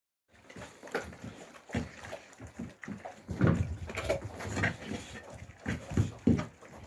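Young Alabai (Central Asian Shepherd) puppies growling and grunting as they play-fight, in short irregular bursts that come thicker from about three seconds in.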